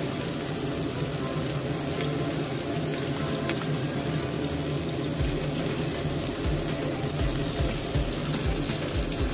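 Tofu skins stuffed with ground shrimp frying in shallow oil in a pan: a steady sizzle with a few faint pops, over a steady low hum.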